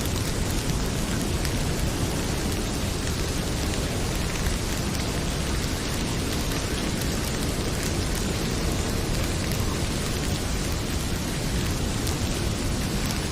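Heavy rain pouring steadily, with the crackling of a wood fire in a fireplace mixed in.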